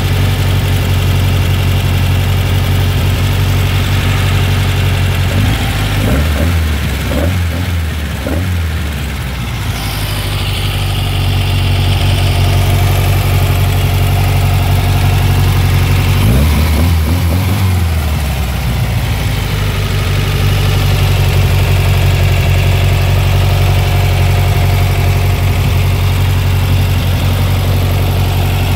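Air-cooled 2276cc VW flat-four engine idling steadily. Its low hum wavers briefly twice, about a quarter of the way through and again a little past halfway.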